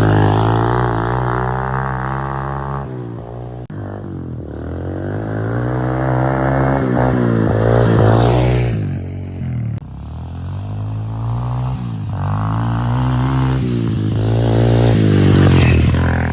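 125cc dirt bike engine running under throttle, its pitch rising and falling several times as it revs up and eases off.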